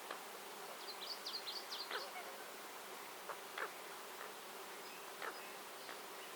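Small birds chirping over a steady natural hiss: a quick run of high chirps about a second in, then a few single short calls.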